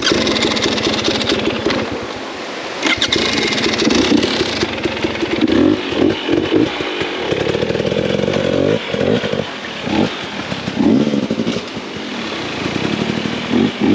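Dirt bike engine revving in repeated short bursts, its pitch rising and falling, as the bike is worked through a slippery section.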